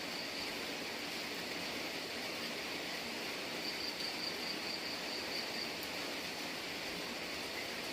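Steady hiss of rain falling. A high, thin insect trill sounds over it, coming in about three and a half seconds in and fading out again about two seconds later.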